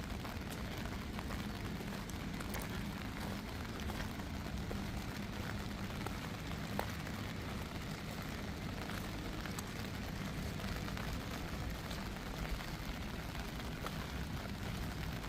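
Steady rain falling, with many small drop ticks over a low, steady rumble.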